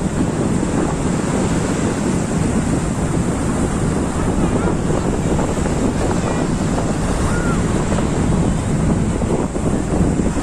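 Sea waves breaking, with wind buffeting the microphone: a loud, steady rushing noise.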